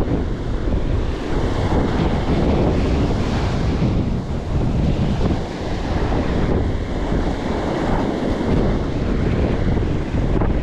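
Strong wind buffeting the microphone in gusts, over the steady wash of surf breaking on the shore.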